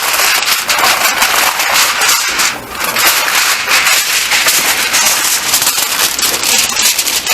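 Aluminium foil crinkling and crackling continuously as it is pressed and wrapped around the edges of a baking dish.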